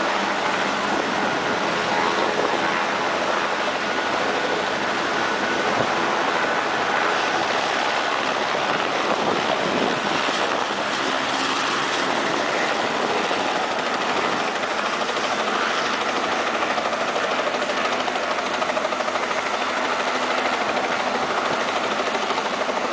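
Eurocopter AS350 helicopter's turbine and rotor running steadily at takeoff power as it lifts off and departs.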